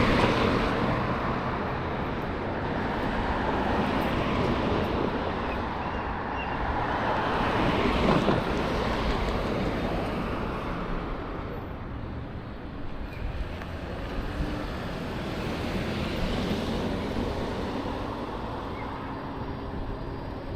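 Road traffic passing: a steady rumble of cars and tyres that swells and fades as vehicles go by, loudest about eight seconds in.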